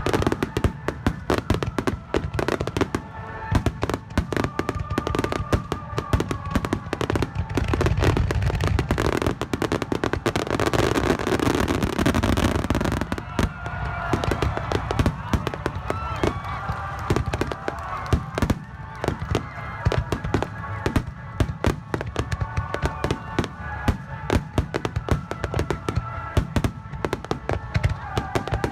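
Aerial fireworks bursting close by: rapid, dense crackling and popping with low booms, and a thicker hissing crackle that builds for a few seconds in the middle.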